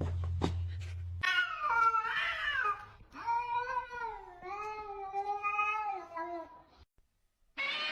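A cat yowling in two long, drawn-out calls that waver up and down in pitch, the second one the longer. Before them, for about a second, there is a low hum with a few clicks.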